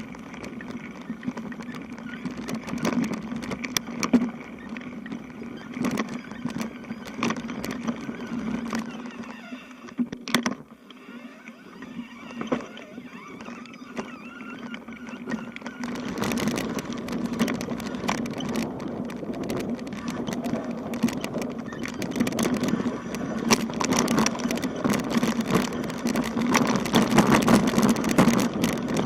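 Bicycle riding over a rough road: steady tyre and road noise with frequent rattles and knocks from the bike. It drops quieter for a few seconds about a third of the way in, then builds again.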